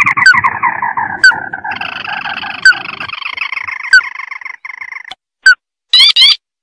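Crake calls played as a bird-lure recording: a long chattering trill that slides slowly down in pitch and stops about five seconds in, cut through by short, sharp rising chirps every second or so. A quick cluster of those chirps comes near the end.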